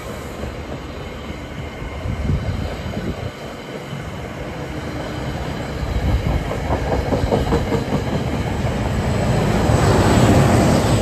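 NJ Transit push-pull commuter train rolling past: steel wheels rumbling and clacking over the rail, growing louder and peaking near the end as the locomotive at the rear goes by close.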